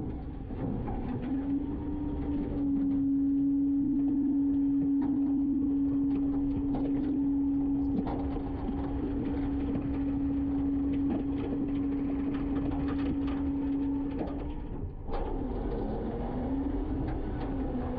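Garbage truck running its packer: the engine and hydraulics hold a steady high whine under load, with scattered knocks and clatter. About fifteen seconds in the whine drops away briefly, then climbs back up as the next stroke of the cycle begins.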